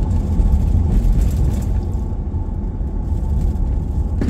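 Steady low rumble of engine and road noise heard inside a moving vehicle's cabin.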